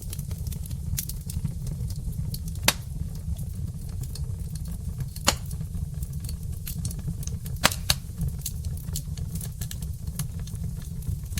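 Wood fire burning in a fireplace: a steady low rumble of flames with frequent small crackles, and a few louder sharp pops from the burning logs, the loudest about a third of the way in, halfway through, and a quick pair about two-thirds in.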